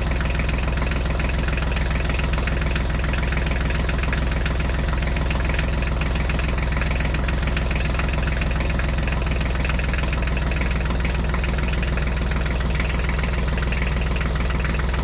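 Tractor engine idling steadily with a fast, even chug.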